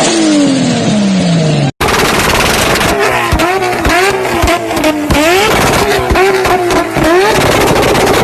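Engine revved in quick repeated blips, its pitch rising and falling about twice a second, with exhaust pops and bangs crackling between the blips. Before that, a brief engine note falls in pitch, then cuts off suddenly.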